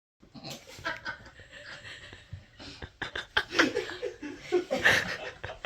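People laughing and chuckling, with a few broken words, starting just after a sudden cut from dead silence and getting louder toward the end.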